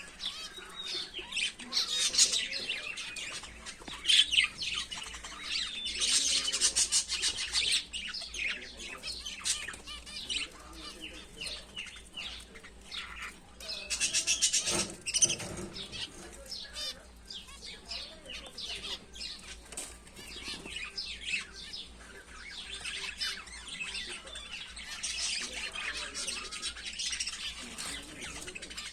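A cage of many small finches chirping continuously, with wings fluttering, in louder spells now and then.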